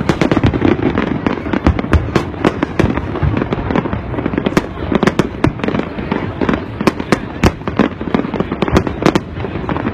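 Fireworks display: a continuous barrage of sharp bangs and crackles, several a second, over a low rumble.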